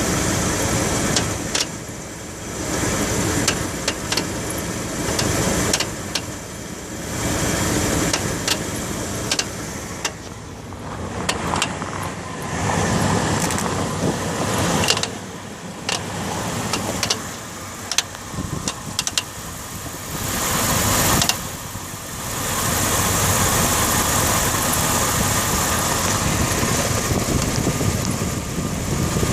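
Dodge Ram 1500 engine running, with a noise from the front of the engine behind the harmonic balancer, which the owner suspects is the timing chain. The level rises and falls, with scattered sharp clicks, and the sound becomes louder and steadier about three-quarters of the way through.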